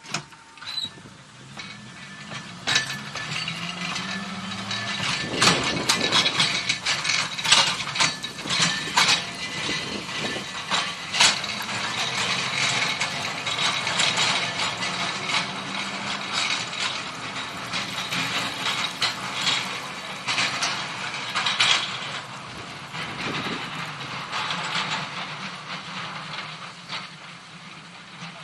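Electric tram running on rails: a low motor whine rising in pitch as it picks up speed, over many clicks, knocks and rattles from the wheels and running gear.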